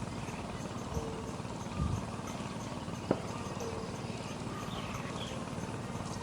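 Outdoor farm ambience with birds calling: a short low note repeats about every two and a half seconds, and a brief falling chirp comes near the end. A few sharp knocks fall in the first half, the loudest about three seconds in.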